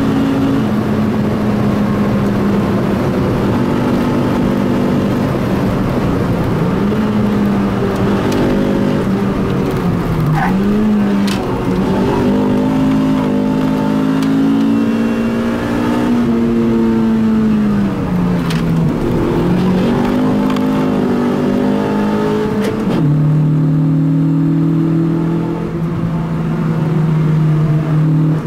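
Car engine heard from inside the cabin under hard driving on a race track: its note repeatedly climbs, then falls as the driver shifts or lifts, and drops sharply about two thirds of the way through, then holds at a lower pitch. Road and wind noise run underneath.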